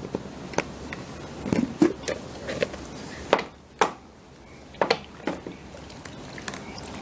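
Irregular sharp plastic clicks and knocks from a salad spinner being handled and worked through a rinse cycle, with cloth pads in water inside.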